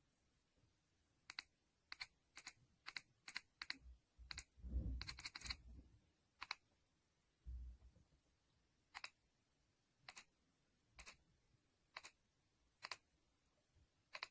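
Faint, sharp single clicks over near silence. They come irregularly at first, about two a second, then settle to roughly one a second, with a few soft low thumps near the middle.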